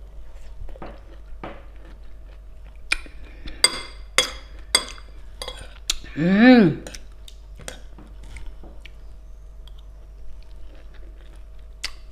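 A person chewing pomelo with red chili, with several sharp clicks of a spoon and fork against a plate. About six seconds in comes a short hummed voice sound that rises and then falls in pitch.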